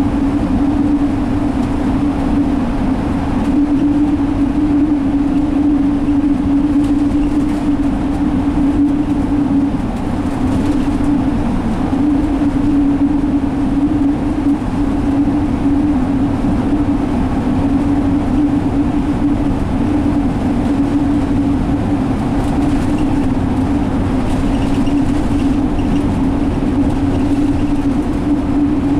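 Cummins ISL inline-six diesel of a 2017 Alexander Dennis Enviro500 double-decker bus running steadily at cruising speed, heard from inside the bus as a constant drone over road and tyre noise.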